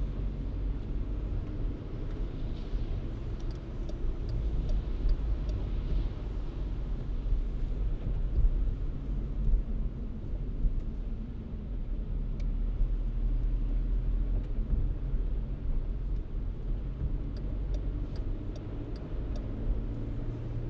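A car driving, with a steady low rumble of engine and road noise. Two short runs of faint light clicks come about a quarter of the way in and again near the end.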